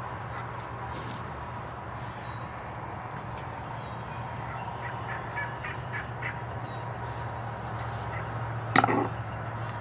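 Wild turkeys calling close by, with a run of short calls in the middle and one loud, brief call just before the end, over small songbirds chirping and a steady low hum.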